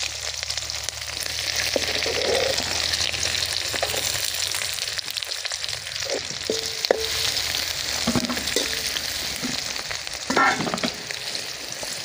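Sliced shallots and dried red chillies sizzling in hot oil in an aluminium pan: a steady hiss of frying, with the steel spoon stirring and now and then clicking and scraping against the pan.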